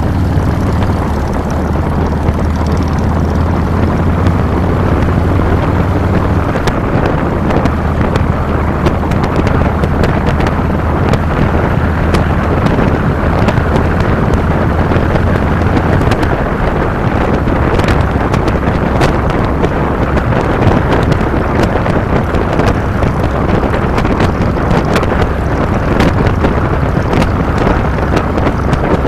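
Harley-Davidson Fat Boy's Twin Cam 96 V-twin engine running under way, with wind rushing over the handlebar-mounted microphone. The engine's steady low note is clear at first, and from about halfway through wind noise dominates.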